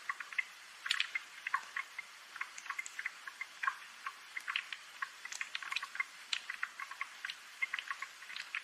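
Rain dripping: many irregular drops ticking and plinking over a faint steady hiss of rainfall.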